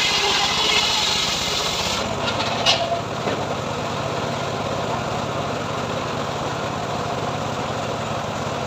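Homemade band sawmill running. Its engine runs steadily throughout, while the hiss of the blade cutting sengon wood drops away about two seconds in, with a few knocks, leaving the engine running on.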